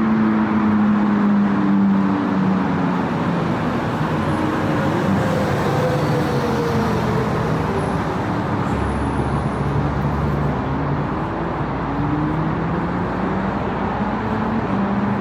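Steady city road traffic: cars and other vehicles running past with tyre noise, their engine hum rising and falling as they pass.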